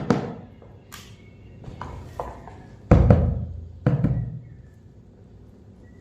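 Hard objects being handled: a quick run of clicks and knocks at the start, then two heavy thumps about three and four seconds in.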